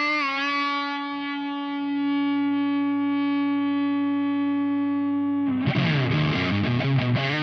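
Electric guitar through an Ibanez Metal Charger distortion pedal: one long sustained distorted note, its pitch wavering with vibrato at first, then about two thirds of the way in a fast riff of quick, changing notes.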